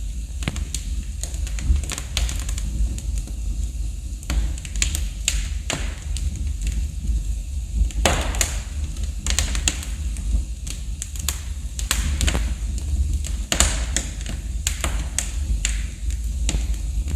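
Wood fire burning in a fireplace: logs crackling and popping in irregular sharp snaps, a few louder pops among them, over a steady low rumble of the flames.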